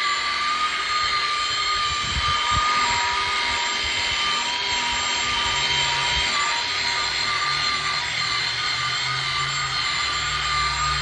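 Electric polisher spinning a buffer pad on a headlight lens, a steady high motor whine. A lower hum joins about halfway through.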